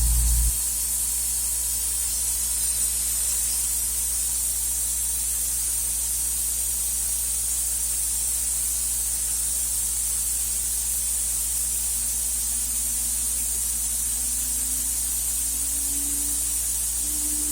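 CNC router spindle running with a steady hiss and a constant low hum. A loud low hum cuts off about half a second in. Over the last few seconds a tone climbs slowly as the spindle is turned up toward about 20,000 rpm.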